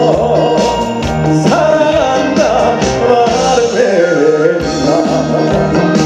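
Live trot band playing an upbeat song at full volume, a wavering lead melody over a steady band.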